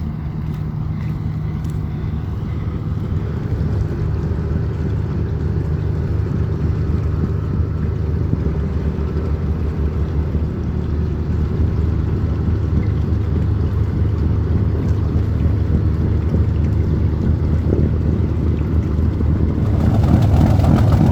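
Engine of a tourist river boat running at low speed as it comes in to moor: a steady low hum that slowly grows louder as it nears, louder still near the end.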